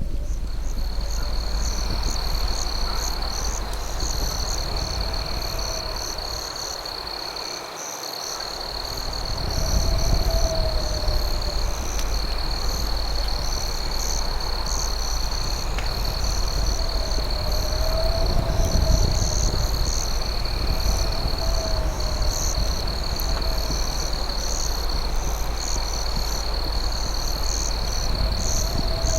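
Crickets trilling steadily in a high, continuous chirr, with a lower warbling call repeating every few seconds, over a steady low rumbling haze.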